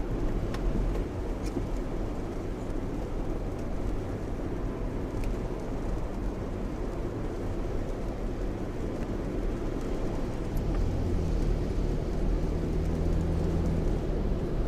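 Steady road, tyre and rain noise heard inside the cabin of a Lexus RX driving on an expressway in heavy rain, with a few faint ticks. About ten seconds in, a low drone joins and the noise grows slightly louder for a few seconds.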